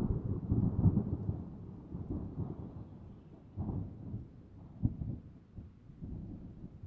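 A thunder clap breaks in suddenly, then rolls on as a long, low rumble with crackles that slowly dies away. The rumble swells again twice in the middle.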